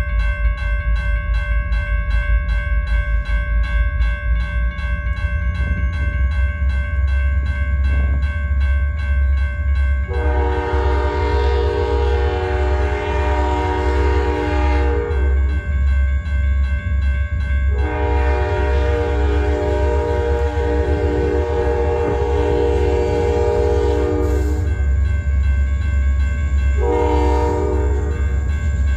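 Freight locomotive air horn sounding the grade-crossing signal: two long blasts, then a short one near the end. Under it run a railroad crossing bell ringing steadily and the deep rumble of the train's diesel.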